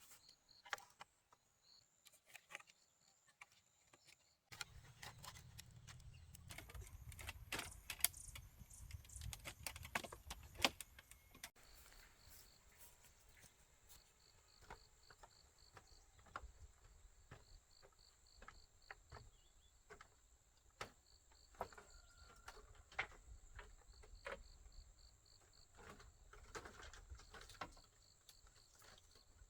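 Faint scattered knocks and clicks over insects chirping steadily in a fast, even pulse, with a low rumble for several seconds in the middle that stops abruptly.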